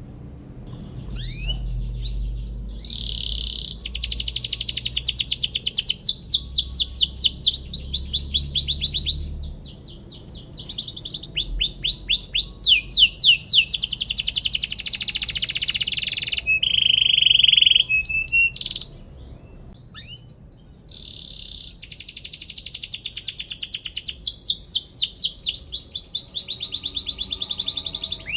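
Domestic canary singing a long song of fast trills: runs of rapid repeated chirps, each sweeping down in pitch, broken by a pause of about two seconds about two-thirds of the way through.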